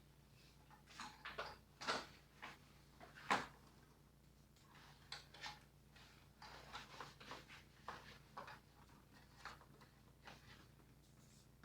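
Faint, scattered scraping and rustling noises with a few sharper clicks, about a dozen short sounds with gaps between them; no vacuum or other machine is running.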